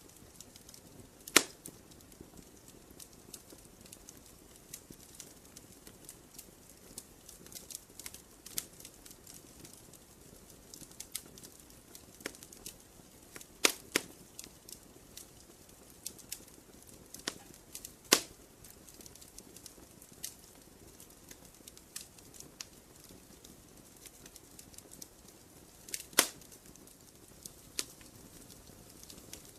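Wood fire crackling: irregular small snaps, with a few loud pops scattered through.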